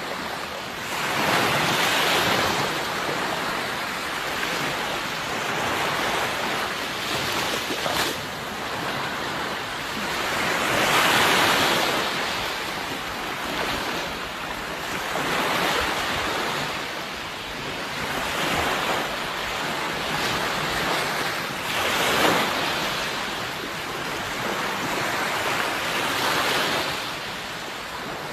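Sea waves breaking on the shore in a continuous wash, swelling with each wave every three to four seconds, with a brief crack of spray near the middle.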